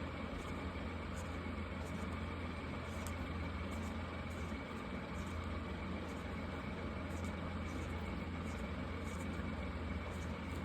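Markers drawing on paper: faint, irregular scratchy strokes over a steady low hum.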